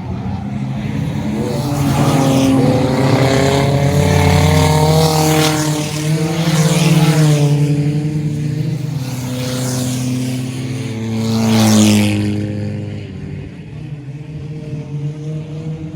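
Race car engines running hard as cars go past on the track. The sound swells and fades over several passes, with the pitch rising and falling, and the loudest car goes by about three-quarters of the way through.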